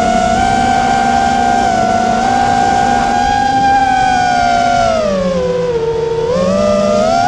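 GEPRC Stretch X FPV quadcopter's motors and propellers whining at a high pitch. The pitch drops about five seconds in as the motors slow, then climbs again near the end.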